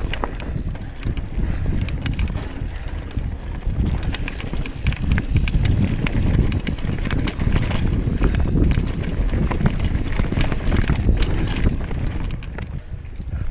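Mountain bike ridden along a dirt trail: wind buffeting the microphone and tyres rumbling over the ground, with many sharp clicks and knocks from the bike rattling over the bumps.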